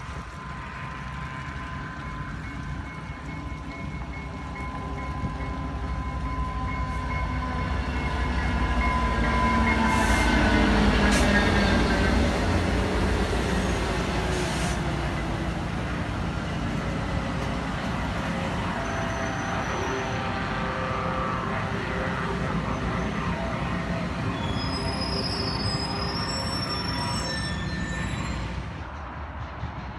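Diesel-hauled commuter train arriving: the locomotive approaches and passes close, growing loudest about ten seconds in, with a steady whine that drops in pitch as it goes by. Bilevel passenger coaches then roll past with wheel squeal.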